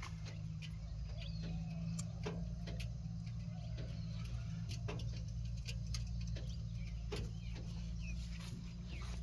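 Diesel engine of a JCB 3DX backhoe loader running steadily at low revs, with scattered sharp clicks and ticks over it.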